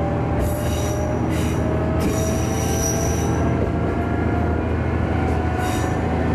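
Diesel railcar running on the line with a steady low engine hum and a faint pitch that rises slowly as it gains speed. The steel wheels on the rails give high-pitched squeals in four separate bursts, the longest about a second and a half.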